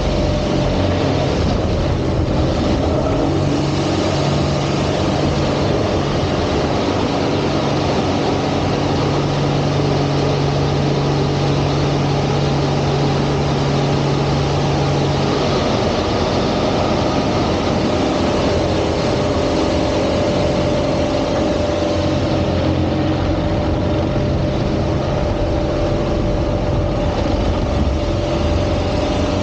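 Single-engine aerobatic plane's piston engine and propeller running loud and steady, its drone shifting in pitch a few times through the manoeuvres.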